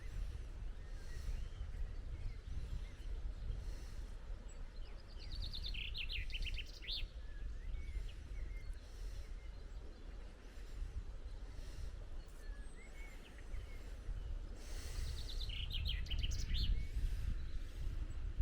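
A songbird singing two short phrases of rapid high trilled notes, about five seconds in and again near the end, with a few faint chirps between, over a steady low rumble.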